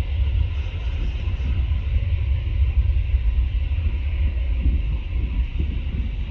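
Jet airliner engines rumbling, a steady deep roar with a fainter hiss on top.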